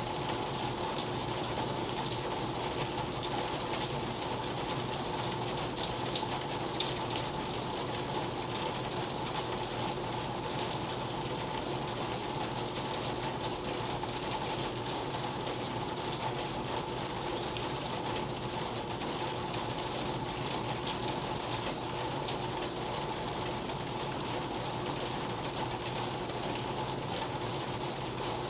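Steady rain, a dense even patter with scattered sharper drop ticks.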